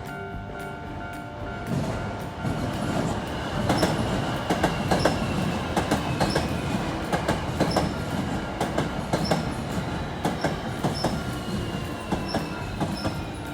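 Hankyu Kobe Line electric train passing over a level crossing, starting about two seconds in. Its wheels clack over the rail joints, and a high whine slowly falls in pitch.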